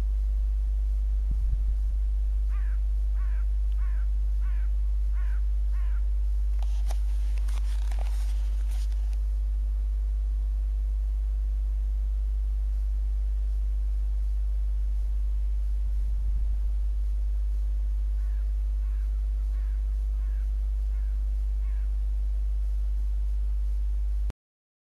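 A steady low hum, with a bird calling in a run of about six short, evenly spaced notes a few seconds in and a fainter run of about six more near the end. A brief crackle comes about seven seconds in.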